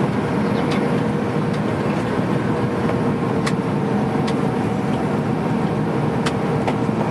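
Steady cabin noise inside an Airbus A310 on the ground after landing: an even rush with a constant hum, broken by a few faint clicks and rattles.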